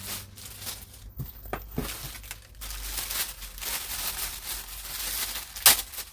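Plastic packaging crinkling and rustling as a haul item is handled and opened, with a sharp snap near the end.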